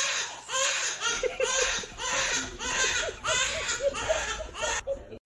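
High-pitched laughter in repeated breathy bursts, about two a second, that cuts off suddenly a little before the end.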